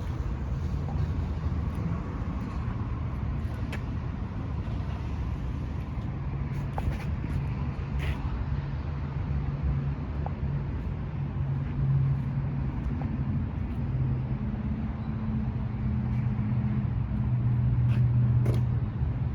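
A vehicle engine running with a steady low hum, its pitch shifting slightly in the second half, with a few faint clicks.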